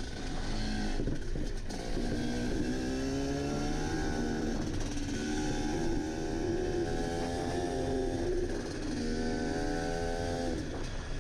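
Enduro motorcycle engine heard on board while riding, its pitch climbing and dropping back three times as the throttle is opened and closed, with a steady rushing noise underneath.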